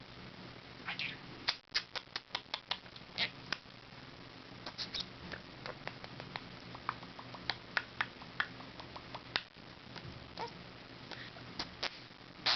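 Pet budgie's irregular quick clicks and short chirps, several a second in loose runs.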